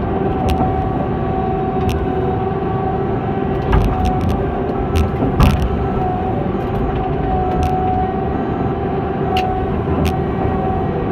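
Heavy logging machine's diesel engine running steadily under load, with a steady droning hum and scattered short clanks and knocks from the machine.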